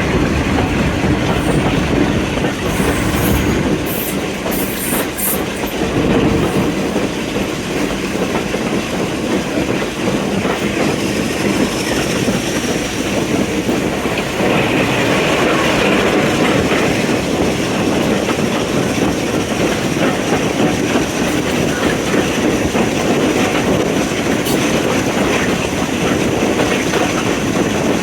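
Train running along the track: a steady, loud rumble of wheels on rails with the clickety-clack of rail joints.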